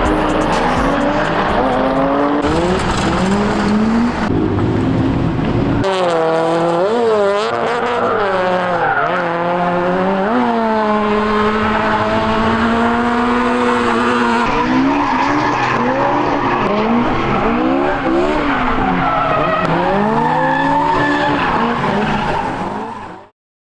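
Drift cars on track, their engines revving up and down as they slide, with tyres squealing. The sound cuts off suddenly shortly before the end.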